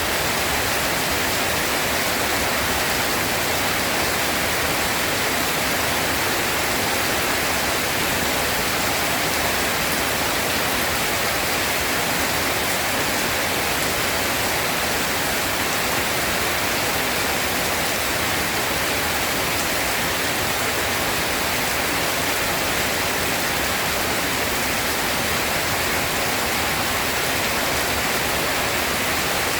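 Steady rain, an even hiss that holds at one level without a break or a thunder clap.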